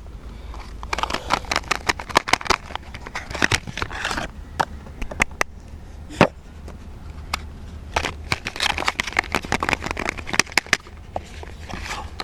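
Soap packaging being unwrapped close to the microphone: paper and plastic wrappers crinkling in short bursts, with many sharp clicks and taps.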